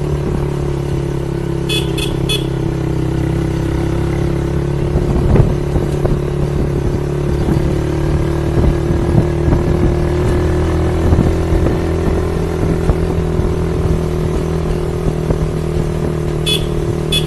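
Motorcycle engine running at a steady speed, with a low rattle over rough road and a sharp knock about five seconds in. Short high-pitched beeps come in a quick cluster near two seconds in and again at the end.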